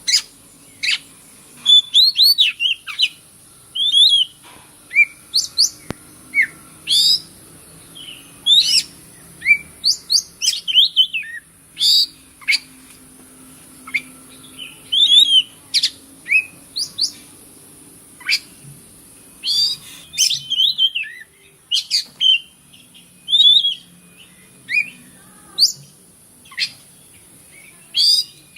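Oriental magpie-robin (kacer) singing a rapid, varied string of short chirps, whistles and sliding notes, phrase after phrase with brief gaps between them.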